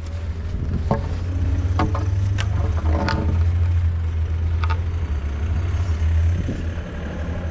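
Engine running steadily at low speed, with a few sharp knocks and clatters over it.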